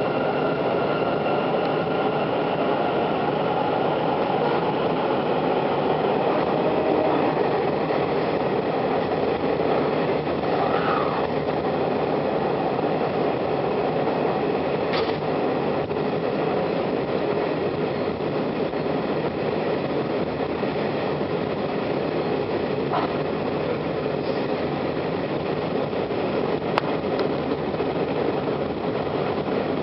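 Kintetsu electric train running through the underground tunnel of the Namba Line: a steady rumble of wheels on rail and car noise, with a faint motor whine fading out in the first few seconds and a few light clicks.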